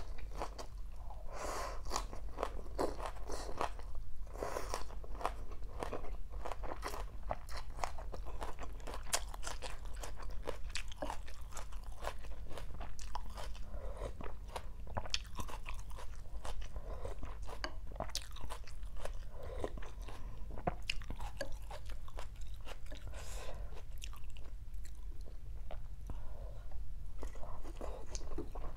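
A person chewing and crunching a mouthful of rice noodles and raw greens (bean sprouts, shredded water spinach, lettuce), with rapid irregular wet mouth clicks and crackles throughout.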